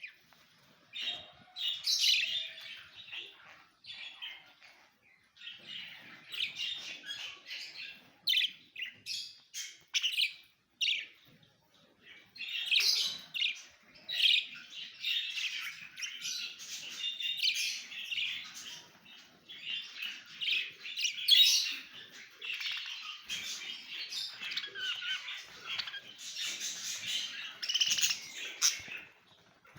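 Many small caged pet birds chirping and calling over one another in a dense, high-pitched chorus, with a couple of short lulls.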